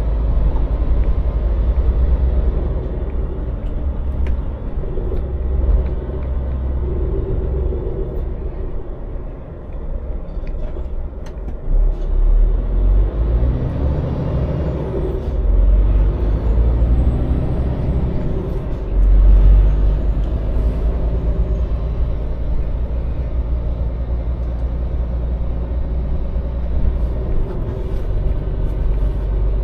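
Scania lorry's diesel engine running while driving, a steady low rumble with road noise, swelling louder a few times midway.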